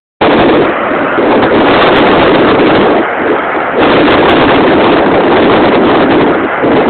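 Loud, steady rushing roar of a large industrial flare burning off at a chemical plant, starting abruptly just after the start and dipping briefly around the middle.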